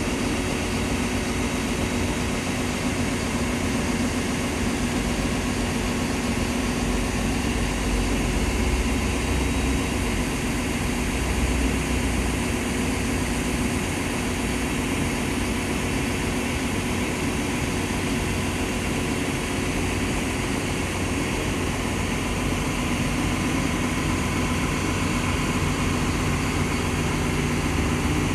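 Cummins diesel engine of a Liugong CLG922E crawler excavator running steadily at a constant speed, with a steady hum.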